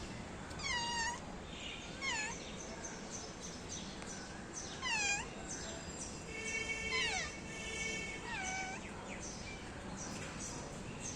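Domestic cat meowing: several short, high meows spread out, each dipping and then rising in pitch.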